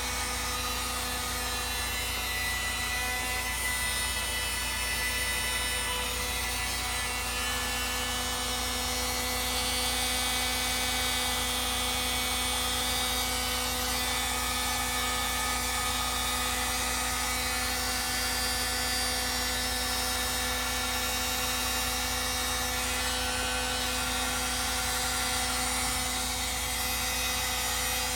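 A motor-driven machine running steadily: a constant hum with several steady tones over an even rushing noise.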